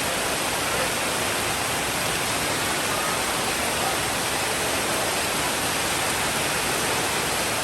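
Steady, even downpour of rain, a dense hiss with no thunder rumble or single drops standing out.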